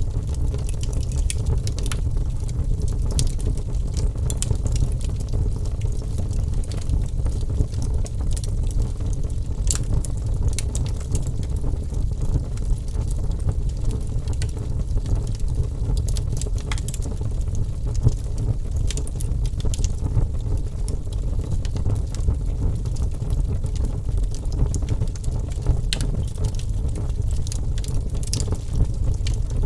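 Wood fire burning, with a steady low rumble of flames and sharp crackles and pops from the burning logs at irregular moments.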